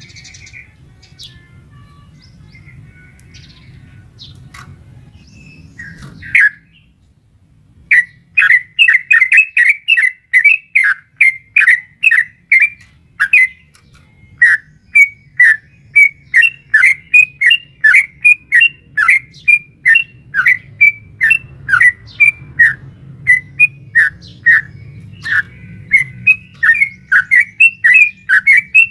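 Yellow-vented bulbul (trucukan) calling in a long, rapid chatter of short bright notes, several a second, starting about eight seconds in after a few faint chirps and one loud note. It is the long 'ropel' chatter used to provoke kept trucukan into calling, which the uploader presents as a female calling a male.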